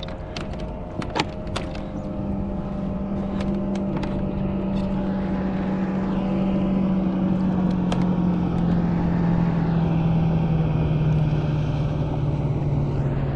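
Motorboat passing close by: a steady outboard engine drone comes in about two seconds in, grows louder and slowly drops in pitch as the boat goes past. A few sharp clicks and knocks in the first couple of seconds.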